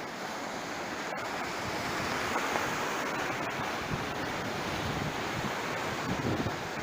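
Sea surf washing onto the shore, a steady rush that swells a little two to three seconds in, with wind on the microphone.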